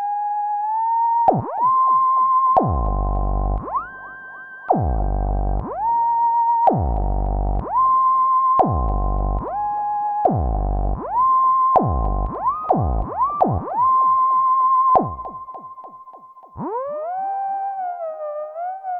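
Access Virus B rack synthesizer playing a monophonic lead sound in a short test phrase. The notes are about a second long and each swoops up in pitch at its start, with a deep low tone under several of them. Near the end a held note slides slowly down in pitch.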